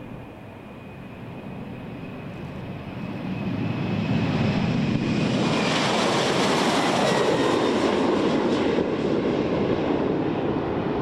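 Boeing P-8I Poseidon's twin turbofan jet engines as the aircraft passes: the roar builds over a few seconds, peaks around the middle, and the high engine whine drops in pitch as it goes by.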